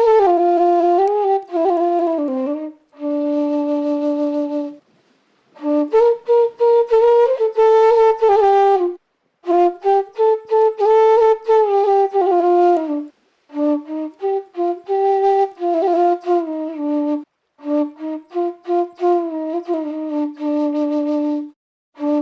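Music: a solo flute-like wind instrument playing a slow melody in phrases of a few seconds, broken by short pauses.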